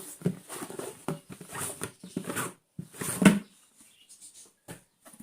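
Plastic water cooler being handled and opened: irregular rustling, scraping and clicking of plastic, with a louder knock about three seconds in.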